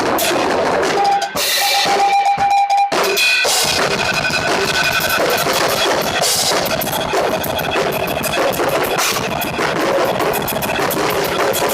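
Drum kit played fast in a metal style, with bass drum and snare, along with a recorded song. The drums stop briefly about a second in, leaving held notes, then come back in.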